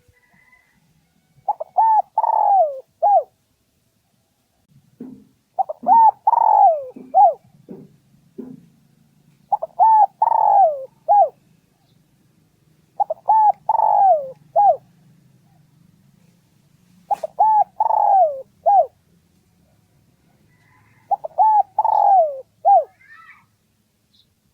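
Spotted dove cooing: six phrases of a few short notes, each falling in pitch, about one phrase every four seconds.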